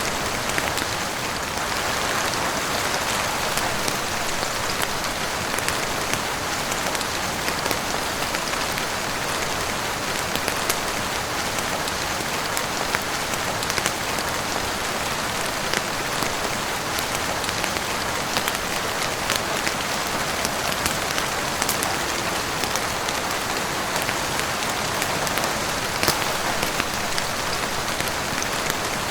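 Steady heavy rain falling on a roof and windows: a dense, even hiss with scattered sharp ticks of individual drops.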